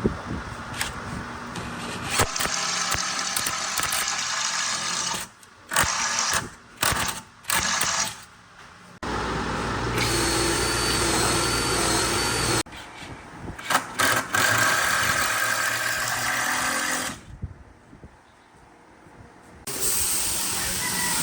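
Power tools running in short stretches that start and stop, with several brief bursts and pauses in between.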